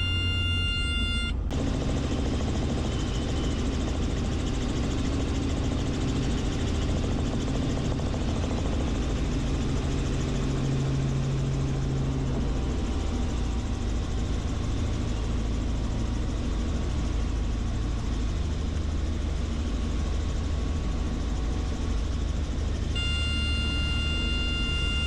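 Helicopter engine and rotor noise, steady throughout. A high whine with many overtones sounds for the first second and a half, cuts off suddenly, and comes back suddenly near the end.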